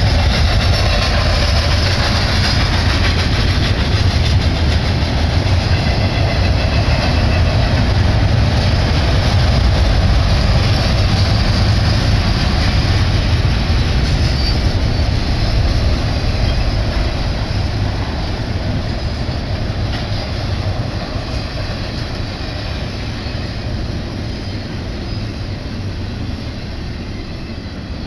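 Double-stack container cars of a BNSF freight train rolling past, steel wheels running on the rails in a loud, steady rumble. In the second half the sound fades gradually as the end of the train passes and moves away.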